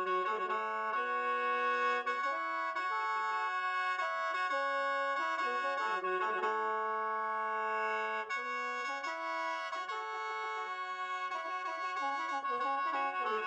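Lao khaen (bamboo free-reed mouth organ) playing a melody over steady drone notes held throughout, the tune moving step by step in the lower notes.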